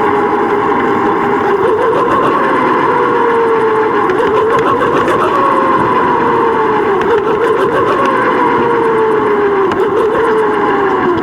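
Bicycle riding noise on a GoPro: a loud steady rush of wind and trail noise, with a droning whine that sinks slowly in pitch and jumps back up every two or three seconds.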